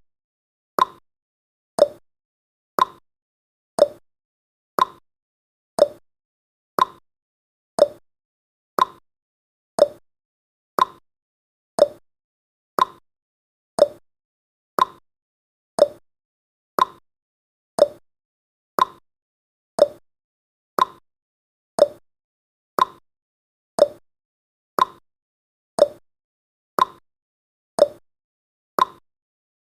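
Countdown timer's clock-style ticking sound effect, one short tick every second, alternating between a higher tick and a lower tock.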